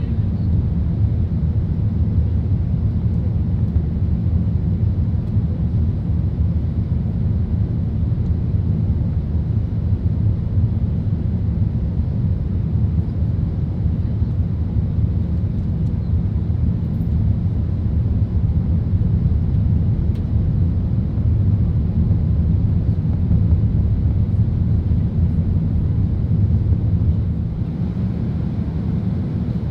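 Steady low rumble of an Airbus A380 airliner heard from inside the economy cabin, the engine and airflow noise of the aircraft in flight, easing slightly near the end.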